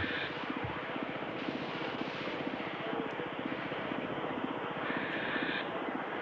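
Live metal band playing an instrumental passage: a dense wall of distorted electric guitars over a fast, even drum pulse, steady throughout.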